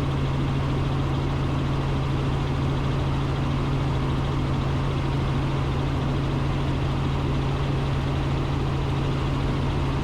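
Robinson R44 Raven II helicopter in cruise flight, heard from inside the cockpit: the steady drone of its six-cylinder piston engine and rotors, with a strong, constant low hum.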